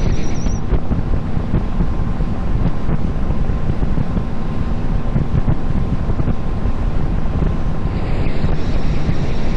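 Wind buffeting the microphone over the steady running drone of a small boat's engine under way. A thin high whine stops just after the start.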